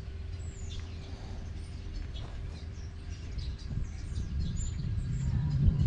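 Small birds chirping in short, scattered high calls, a few of them quick downward sweeps, over a steady low rumble.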